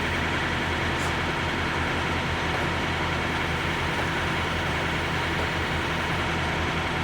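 Truck engine idling: a steady, even hum with constant low-pitched drone.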